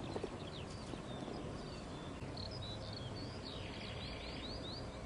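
Wild birds chirping over a steady outdoor background, with a quick run of short falling chirps and a buzzy trill about three and a half seconds in.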